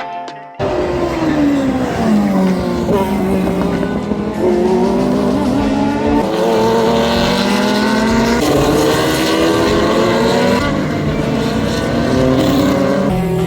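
Racing engines of 1970s–early-1980s endurance sports-prototype and GT cars passing a corner: a steep fall in engine pitch as the cars slow into the corner, then the pitch holding and climbing in steps as they accelerate through the gears. A short piece of music cuts off about half a second in.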